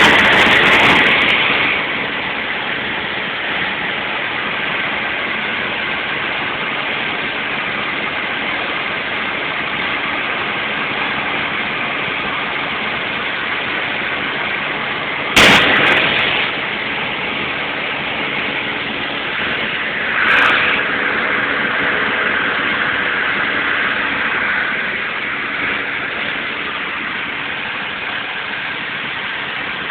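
A vehicle's engine running steadily with road noise. A sharp knock about fifteen seconds in, and a shorter one about five seconds later.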